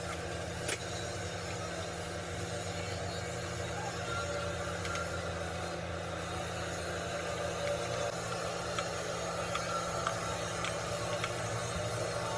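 Rebuilt heavy diesel engine running steadily at idle, with one sharp click under a second in.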